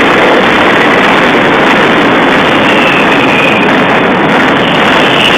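Daytime fireworks going off in a dense, unbroken barrage of bangs and crackles, loud enough to overload the recording. A faint whistling firework sounds about three seconds in.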